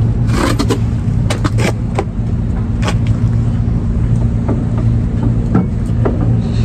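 Scattered light clicks and clanks as tools and brake parts are handled, over a steady low mechanical hum.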